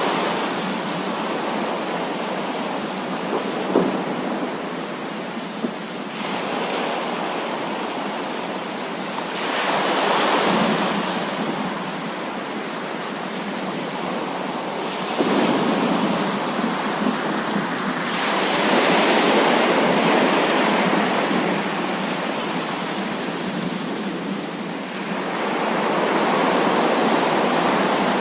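Heavy rain pouring steadily, with rolling thunder that swells and fades several times.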